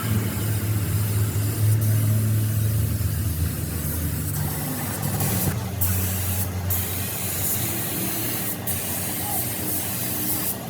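Machinery running steadily with a strong low hum under a continuous spray-like hiss, the hiss briefly dropping out a few times past the middle.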